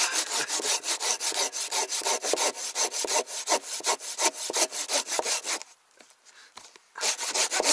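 Hand saw cutting through wood in rapid, even back-and-forth strokes, about five a second. The saw is a cheap discount-store one, being worked hard. The sawing stops for about a second and a half near the end, then starts again.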